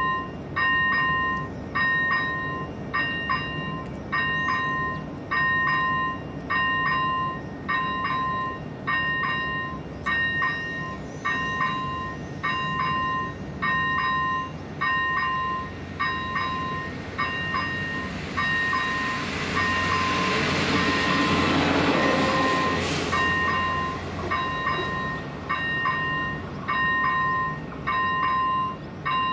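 Level-crossing electronic warning bell ringing steadily, about one ring a second. A train passes over the crossing, its rumble and rail noise rising to a peak about twenty seconds in and then dying away.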